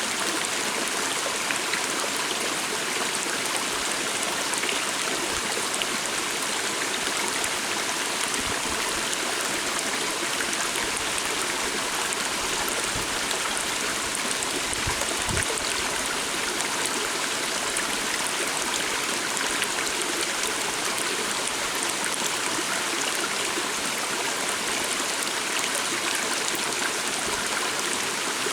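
Calm stream flowing steadily: an even, unbroken rush of running water.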